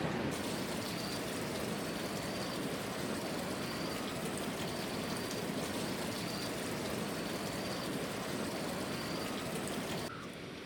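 Steady noise of water, with faint short high chirps repeating about once a second.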